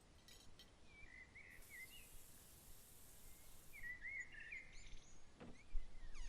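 Songbird chirping in two short warbling phrases over a faint outdoor background, with a high hiss for about two seconds in the middle. A single knock near the end.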